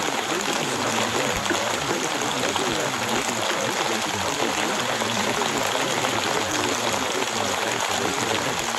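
Steady rain recording, an unbroken hiss of rainfall, with faint layered voices murmuring beneath it: the masked affirmations of a subliminal audio track.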